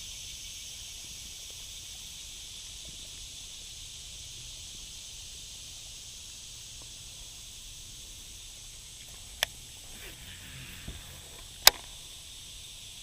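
Steady high-pitched outdoor hiss, with two sharp clicks near the end about two seconds apart, the second louder.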